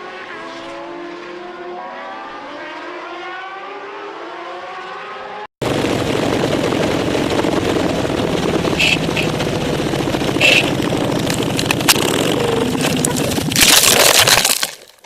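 A motor vehicle engine running steadily, its pitch gliding slowly. After an abrupt cut comes a much louder, rougher engine with scattered sharp knocks, then a loud rush of noise near the end that stops suddenly.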